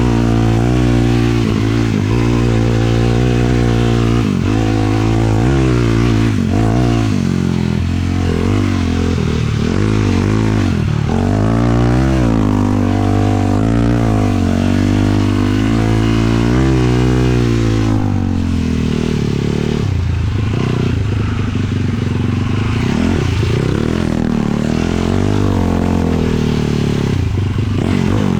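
A 450 sport quad's single-cylinder four-stroke engine revving up and dropping back again and again as it is ridden over dunes, with wind rushing past.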